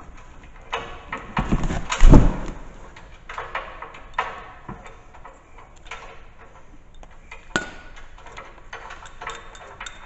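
Steel snow plow mount bracket and bolts clanking and knocking as they are fitted by hand, with a heavy thump about two seconds in and lighter clicks after it.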